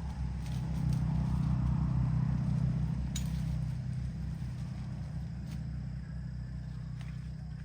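A motor engine running with a steady low rumble. It grows louder about a second in, then slowly eases off. A few light clicks come over it.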